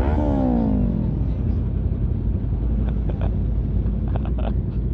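Sport bike engine dropping in revs over the first second as the throttle is rolled off. It is followed by a steady low rumble of wind and road noise while riding.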